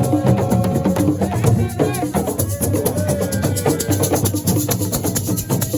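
Live assiko music: fast, dense hand percussion with shaker rattles and drums, and a sustained melody line over it.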